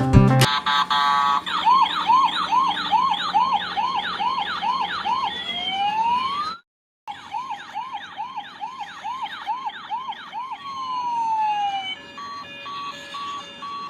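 Electronic siren of a battery-operated toy vehicle, a fast up-and-down wail about three times a second that switches to a slower crossing two-tone sweep. It cuts out briefly about halfway, starts again, and near the end gives way to a rapid beeping tone pattern.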